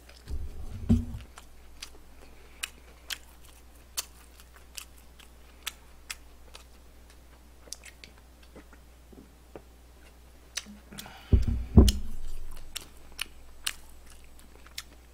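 Close-miked chewing of crispy fried chicken, with scattered sharp crunching clicks. Dull low thumps come about half a second in and again, louder, around eleven to twelve seconds in.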